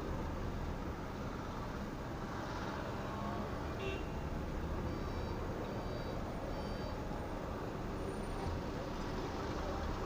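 Steady low rumble of a moving motor vehicle, with a few faint short high beeps about halfway through.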